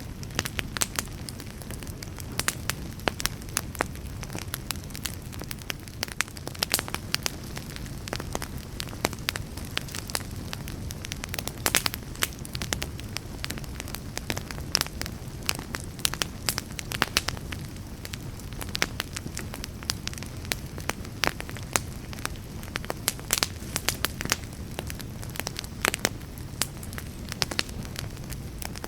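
Wood fire burning, with a steady low rumble and frequent sharp crackles and pops at irregular moments.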